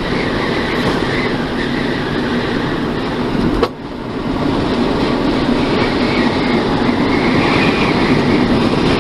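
Steady road and tyre noise inside a moving car, with a sharp click and a brief dip in level about four seconds in.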